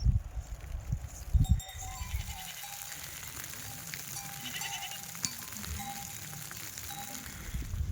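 Sheep in a flock bleating, many short calls over a steady hiss, with a few low knocks in the first second and a half.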